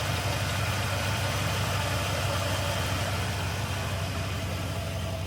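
Chevy three-quarter-ton pickup's engine idling steadily and evenly, just started, running quiet.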